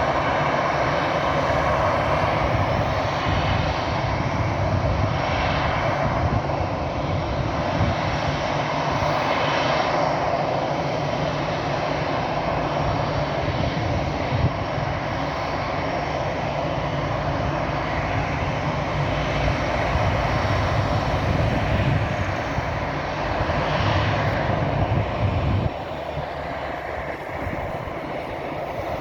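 Airbus A320 jet engines running loud and steady, a dense rush with a deep rumble underneath; the rumble drops off suddenly near the end.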